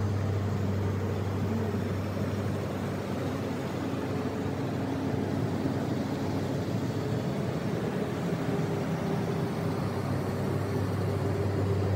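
A car engine running steadily, a low even hum with a hiss over it.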